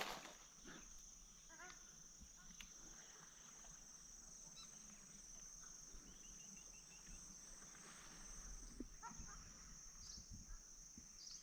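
Faint forest ambience: a steady high-pitched insect drone, with scattered short bird chirps and a quick run of chirps a little past the middle.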